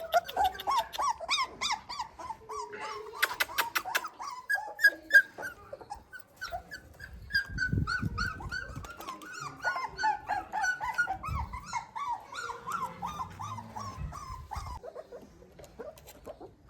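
Puppy whimpering in a long run of short, high cries, several a second, the pitch rising and falling in waves. A quick run of clicks comes about three seconds in.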